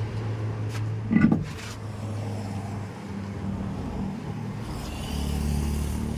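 A motor vehicle's engine running steadily at low speed, its hum shifting lower and louder about five seconds in, with one short loud sound about a second in.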